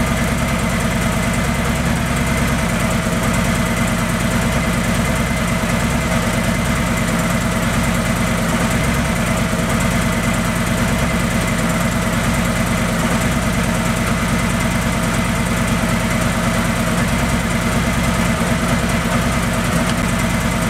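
Harley-Davidson police motorcycle's V-twin engine idling steadily.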